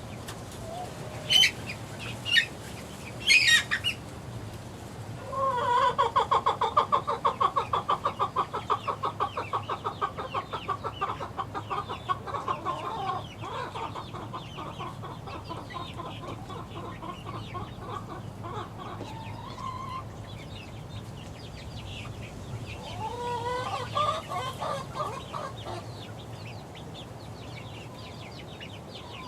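Young six-week-old chickens calling: a few sharp peeps, then a long, fast run of clucking trills that slowly fades, with another short bout about three-quarters of the way through.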